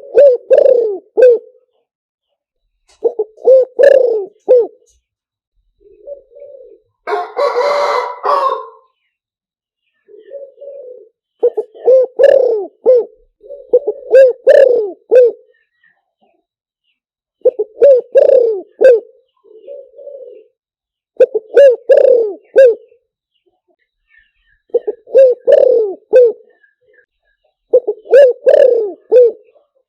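Spotted dove cooing: the same short phrase of several coos, repeated every three to four seconds. About seven seconds in there is a rougher, noisier sound lasting over a second.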